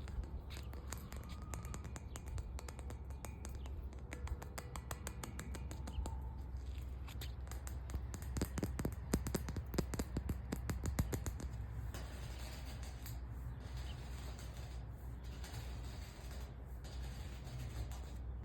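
Rapid fingertip and fingernail tapping and scratching on a hard object, fastest and loudest about halfway through and sparser toward the end, with faint bird chirps in the background.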